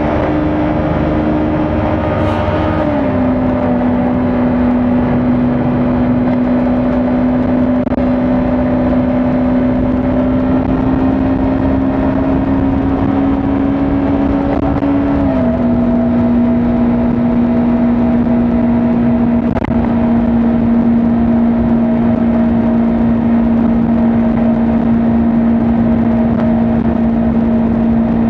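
Kawasaki Ninja 400's parallel-twin engine running steadily at highway speed, with wind and road rush. Its note steps down in pitch about three seconds in, creeps slowly up, then steps down again about halfway through and holds steady.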